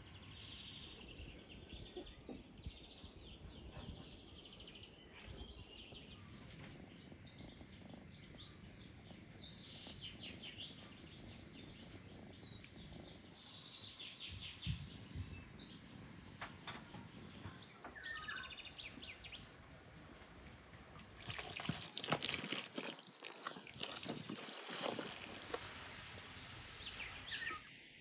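Birds chirping and calling in the background, with a louder rustling hiss for several seconds near the end.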